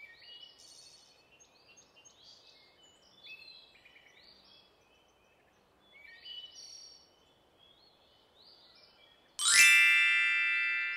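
Faint woodland ambience of small birds chirping and calling. About nine and a half seconds in, a loud bright chime sound effect rings out and slowly fades.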